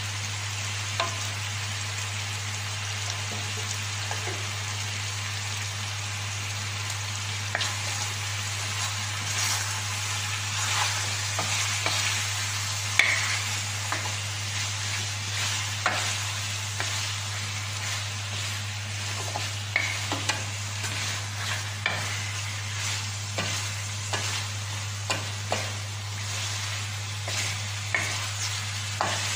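Chicken pieces sizzling in hot oil in a wok, with a steady frying hiss, while a wooden spatula stirs and turns them, scraping and knocking against the pan at irregular moments.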